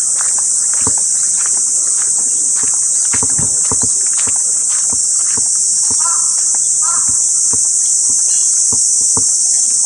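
A dense, steady, high-pitched insect chorus of crickets or similar insects, with scattered light clicks and knocks.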